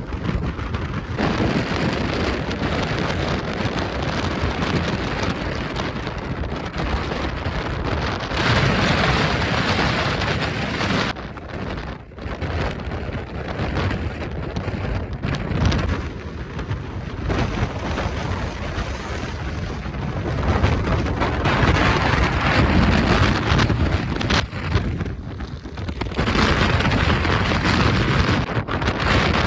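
Strong gusting wind buffeting the microphone, surging and easing in waves every few seconds.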